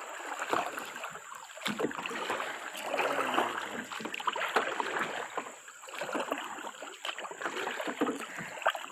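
Kayak being paddled: paddle strokes splashing and water sloshing against the hull, with many small knocks and clicks, swelling and fading unevenly.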